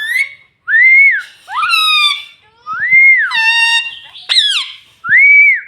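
Pet green parrot whistling and calling: three clear arched whistles, each rising then falling, alternating with shorter, harsher calls.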